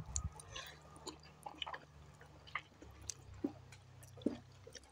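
Several people chewing and slurping instant ramen noodles, with scattered soft, wet mouth clicks and smacks.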